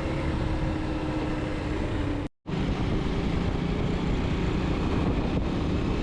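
Bajaj Pulsar motorcycle engine running while riding, with road and wind noise. The sound drops out abruptly for a moment a little over two seconds in, then comes back with the engine at a lower pitch.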